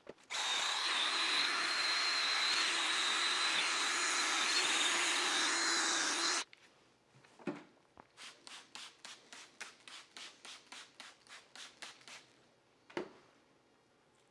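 Drill spinning a 500-grit sanding disc against a wet plastic headlight lens: a steady sanding hiss with a high motor whine for about six seconds, stopping abruptly. After it comes a quick run of soft rhythmic strokes, about four or five a second, and a couple of light knocks.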